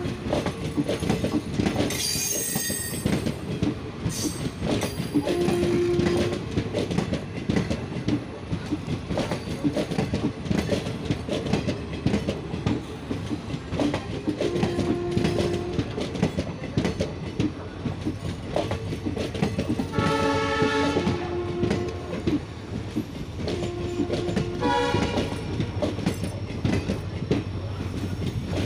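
Indian Railways passenger train of sleeper coaches rolling past close by: a steady clatter of wheels over the rail joints. Several brief pitched tones, each about a second long, sound over the clatter.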